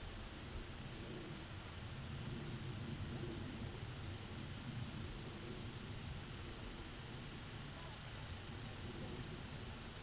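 A small bird calling in a series of short, high, falling chirps, clearest in the second half, over a low steady outdoor rumble.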